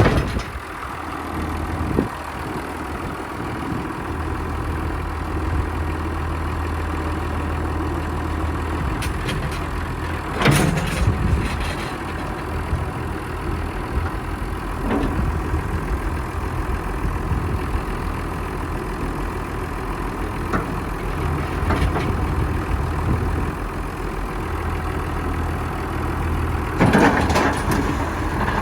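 1994 John Deere 7400 tractor's six-cylinder diesel engine idling steadily, with a few sharp clunks over it, the loudest about ten seconds in and near the end.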